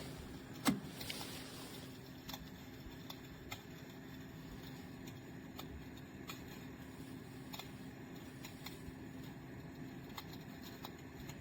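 Electric fireplace heater running: a steady fan hum under its recorded log-fire crackling sound effect, heard as scattered pops and clicks, with one louder pop about a second in.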